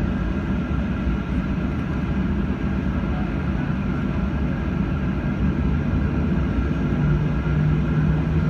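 Jet engine noise from a Boeing 737-800's CFM56-7B turbofans, heard inside the cabin. It is a steady rushing with a low hum that shifts lower in pitch about seven seconds in.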